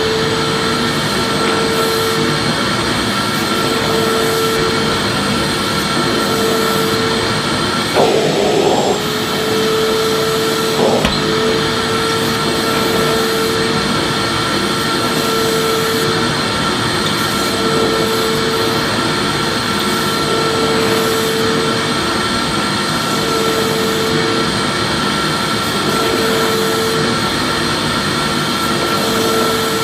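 Vacuum cleaner running steadily: a constant motor drone with a steady high tone and a lower tone that comes and goes every second or two. There are a couple of brief knocks, at about 8 and 11 seconds.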